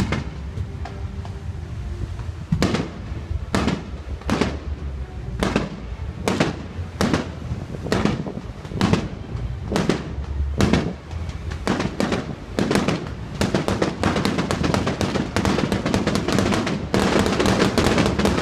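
Fireworks display: aerial shells bursting with sharp bangs, about one or two a second, quickening into a rapid, dense run of crackling bursts in the last few seconds.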